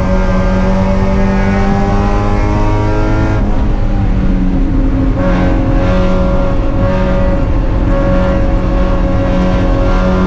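Spec Miata race car's four-cylinder engine running hard at speed. Its note climbs slowly, drops suddenly about a third of the way in, then holds steady at a lower pitch.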